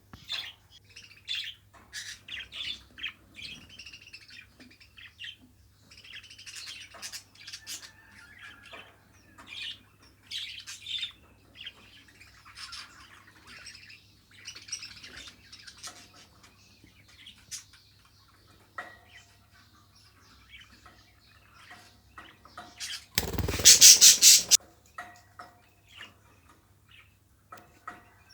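Pet budgerigars chattering and chirping in short, scattered bursts. A loud burst of noise, about a second long, breaks in a little past two-thirds of the way through.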